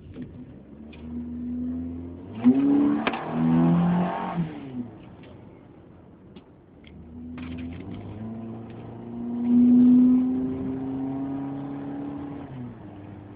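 Car engine revving up twice. A short burst of revs with a sharp knock comes about two and a half seconds in, and a longer pull starts about seven seconds in, is loudest about halfway through and eases off near the end.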